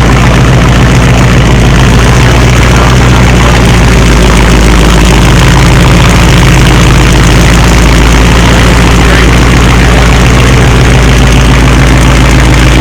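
2019 Dodge Charger Scat Pack's 392 (6.4-litre) HEMI V8 idling loud and steady through an exhaust with the mid mufflers and resonator deleted.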